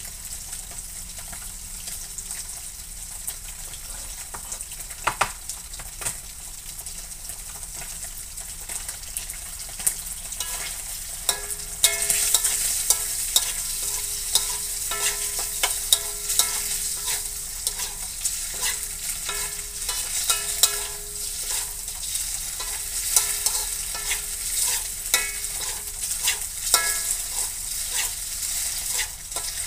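Oil sizzling in a steel wok as tofu pieces fry, with a metal spatula scraping and clicking against the pan as they are stirred. The frying gets louder and the stirring busier from about twelve seconds in.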